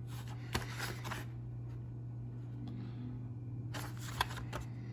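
Hot Wheels blister-pack cards being handled, plastic and cardboard rustling in two short bouts: about half a second in and again near four seconds. A steady low hum runs underneath.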